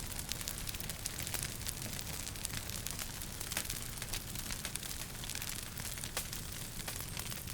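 Wood fire crackling in a fireplace: many small, irregular pops and snaps over a steady low rumble of the burning fire.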